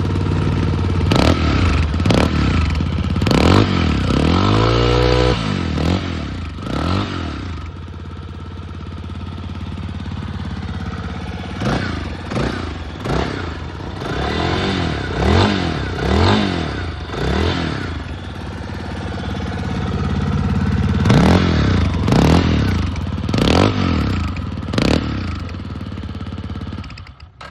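Yamaha Tricker's 249 cc air-cooled single-cylinder engine running through an aftermarket dB's muffler: it idles and is blipped repeatedly with the throttle. The blips come in three bursts, with one longer, higher rev about four to five seconds in and steady idle between the bursts.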